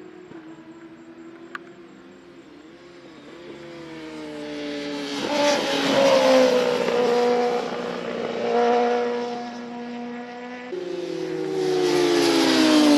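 Racing motorcycle engines at high revs. They grow louder from about four seconds in and drop in pitch as a bike passes, and a second loud pass follows near the end.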